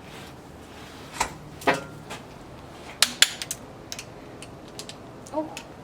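Hand tools and metal engine parts clinking: a handful of sharp, irregularly spaced metal clicks and knocks, the loudest two pairs in the first half.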